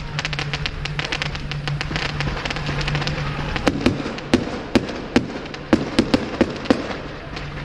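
Fireworks display: a dense, rapid crackle of many small reports, then a string of about ten sharp bangs from bursting shells, starting a little over three seconds in.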